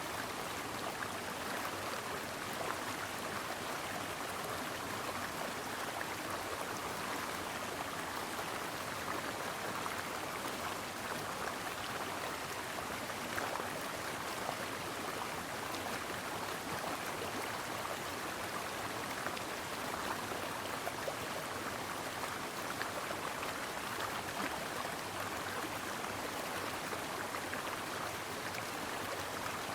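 Brook water running and babbling over rocks: a steady rushing with many small splashes and trickles.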